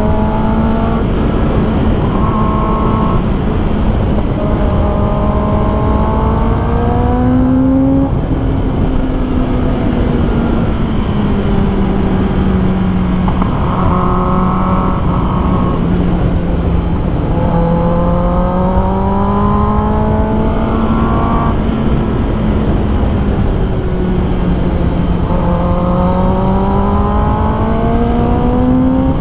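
2021 Kawasaki ZX-10R's inline-four engine running at speed while riding, its pitch easing and climbing several times as the throttle is rolled off and on, over a steady rush of noise.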